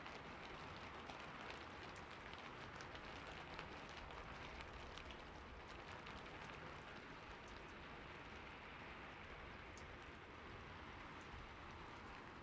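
Steady rain falling on a roof, a soft continuous hiss with many small distinct drop ticks, busiest in the first half.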